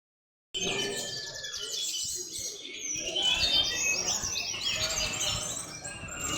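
Many caged songbirds singing at once: a dense, overlapping chorus of rapid chirps and trills, starting about half a second in.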